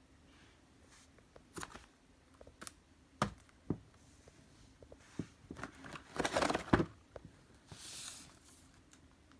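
Boxes and packaging being handled: scattered knocks and taps, with a louder spell of crinkling and rustling about six seconds in.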